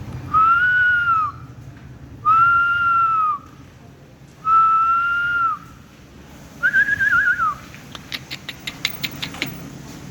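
Whistling: four long, clear whistled notes, the first three gently arched in pitch and the fourth warbling, followed near the end by a quick run of sharp clicks.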